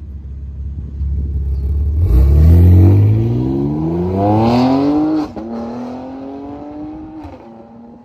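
BMW X4M's S58 twin-turbo inline-six through an aftermarket valved exhaust: a low rumble, then hard acceleration with the pitch climbing for about three seconds, a sudden drop about five seconds in like a gear change, then a lower, steadier note that fades out.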